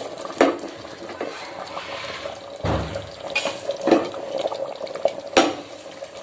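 Metal cooking utensils clinking and knocking against a pot, four or so sharp strikes about a second apart, with a soft hiss between them.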